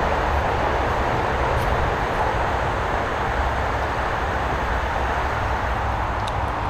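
Steady drone of road traffic from a nearby highway, an even rushing noise with no single vehicle standing out.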